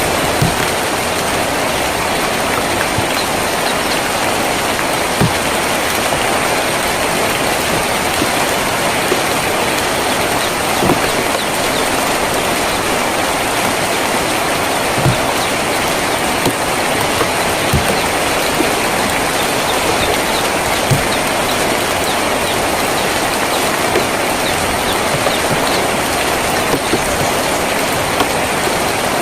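Steady heavy rain drumming on a tin roof, with occasional louder single drops ticking through the constant hiss.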